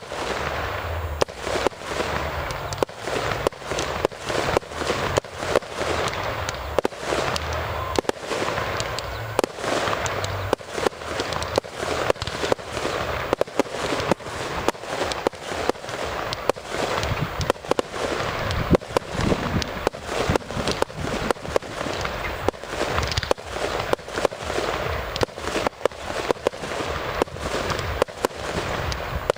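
Fireworks display: a continuous barrage of bangs, about two a second, with a haze of noise between them.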